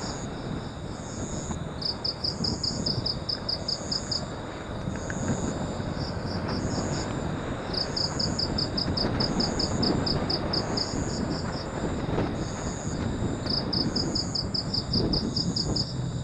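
Motorcycle ride with steady wind rush over the phone microphone and engine and road noise, while insects in the roadside vegetation chirp in bursts of rapid high pulses every few seconds.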